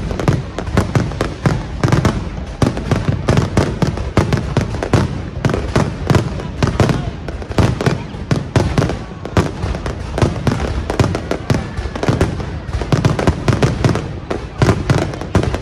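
Fireworks display: a dense, unbroken barrage of aerial shell bursts, many bangs a second with no pause.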